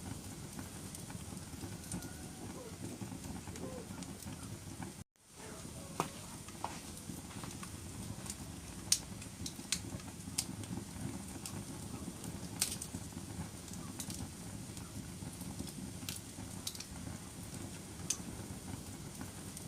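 Wood fire burning in a fireplace: a steady low rumble with scattered sharp crackles and pops. The sound cuts out for a moment about five seconds in.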